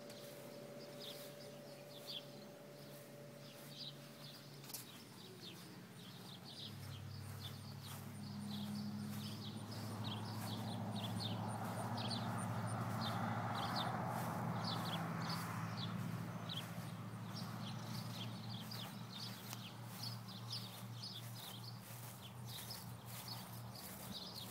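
Small birds chirping over and over in short high chirps, a few times a second. Under them a low steady hum comes in about seven seconds in, with a rushing swell around the middle.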